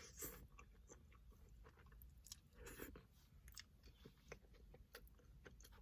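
Faint close-up chewing: soft, irregular mouth clicks of someone eating, a little louder about three seconds in.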